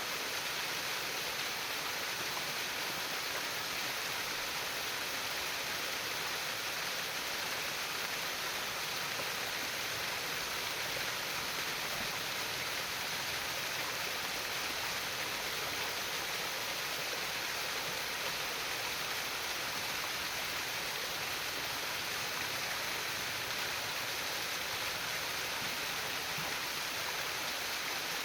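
Water trickling and flowing steadily in a stream: an even hiss that does not change.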